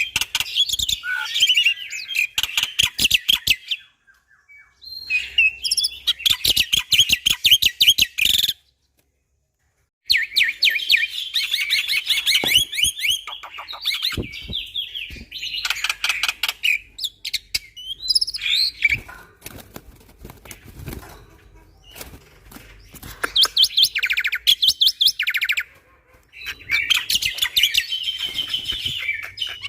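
Black-winged myna (jalak putih) singing loudly in rapid bursts of chattering, whistled and harsh notes, with fast rattling runs. The song breaks off briefly twice, fully for about a second and a half near nine seconds in.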